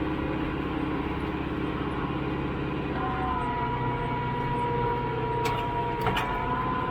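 Tractor engine running steadily. About three seconds in, the sound shifts and a steady whine comes in. Two sharp clicks follow near the end.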